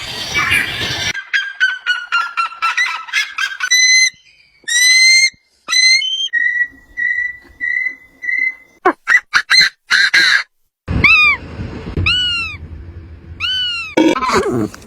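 A series of different bird calls one after another: a rapid run of short falling notes, then loud honking calls, a string of short steady whistled notes, and four arching goose-like honks near the end.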